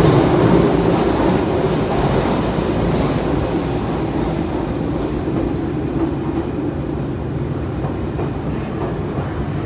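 Running noise of an Izuhakone Railway 5000 series electric train, heard from inside the passenger car: a steady low rumble that grows gradually quieter, its hiss fading about halfway through.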